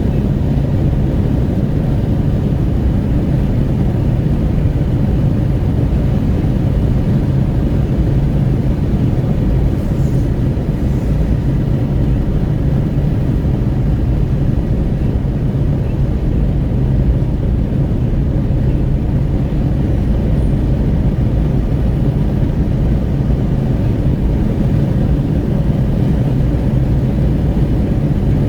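Renault Kwid 1.0 driving at highway speed with wind rushing at the window, together with road and tyre noise and the engine's drone. The low rumble holds steady throughout.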